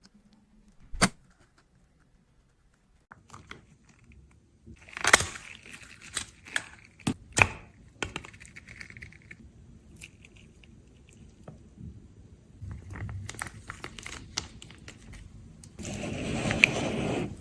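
Close-up handling noises of small objects: a sharp click about a second in, a run of clicks and taps a few seconds later, and a louder scraping, rustling stretch near the end.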